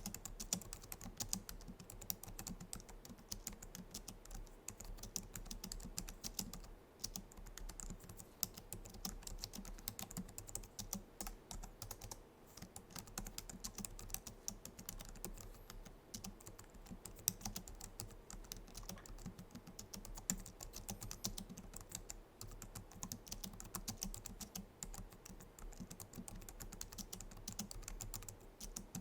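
Typing on a Logitech MX Keys keyboard: a fast, continuous stream of key clicks from its low-profile scissor-switch keys, with short pauses about seven and twelve seconds in.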